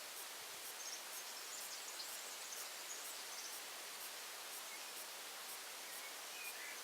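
Faint outdoor ambience: a steady hiss with a high, regular pulsing about twice a second, and a few faint bird calls, the higher ones in the first half and lower ones near the end.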